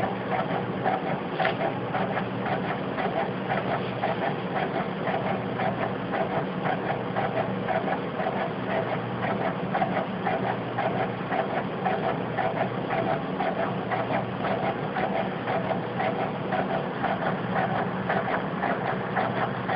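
A DVD player from a scrapyard running with a steady, rapid mechanical clatter over a low hum, the factory-like noise of its faulty disc mechanism.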